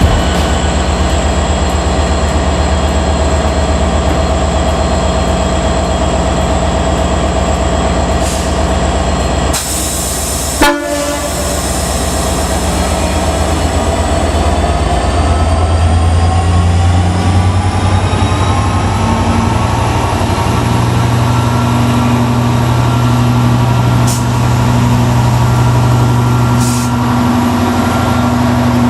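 Class 67 diesel locomotives' EMD two-stroke engines running steadily, with a short loud horn blast about ten seconds in. A few seconds later the engine note rises and grows louder as the locomotives power up to pull away, then holds at the higher pitch.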